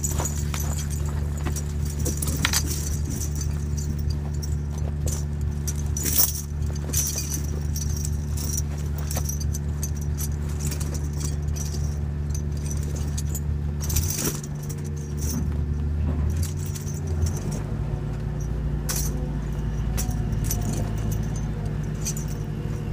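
Tractor engine running steadily, with loose metal tire-chain links clinking and jangling on and off. The engine note changes about two-thirds of the way through.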